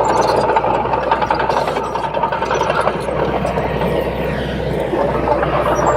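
Bulldozer diesel engine running steadily.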